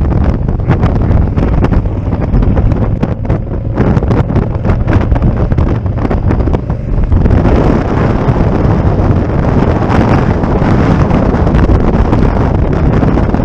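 Wind buffeting the microphone on a moving motorcycle, with road and engine noise underneath. It grows louder and fuller about seven seconds in.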